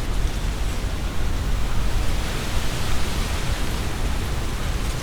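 Strong wind gusting through trees, the leaves rustling steadily, with wind buffeting the binaural microphone as a low rumble underneath.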